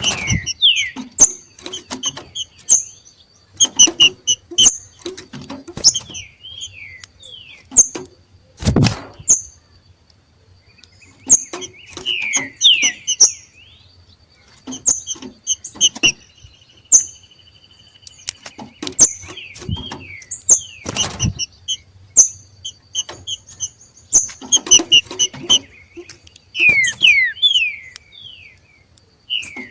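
Green-winged saltators (trinca-ferro) calling back and forth with many short sharp chirps and quick downward-sliding notes, the 'macheado' calls these birds give in breeding condition. A few dull thumps come about nine seconds in and twice around twenty seconds.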